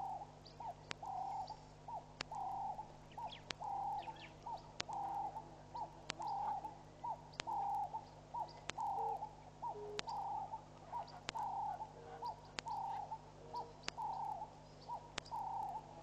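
A bird calling the same two-part phrase over and over, a short hooked note and a longer low note about once a second. Fainter high chirps from other birds come through now and then.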